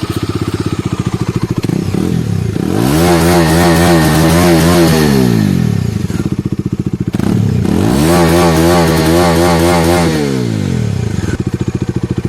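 Bajaj Dominar 250's single-cylinder engine idling just after starting and revved twice: each time the pitch climbs, holds for a couple of seconds and falls back to idle.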